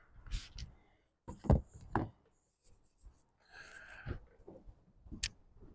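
Trigger spray bottle of ceramic spray sealant spritzing onto a truck's paint in short hisses, with knocks and rubbing from handling and wiping between sprays.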